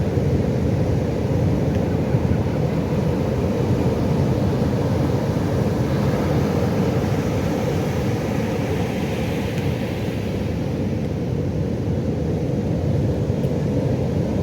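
Ocean surf: a steady low rumble of waves, with the hiss of a wave washing in swelling up about halfway through.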